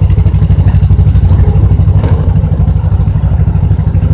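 Engine of a small passenger tourist train running steadily under way, a loud, low, rapid, even throb.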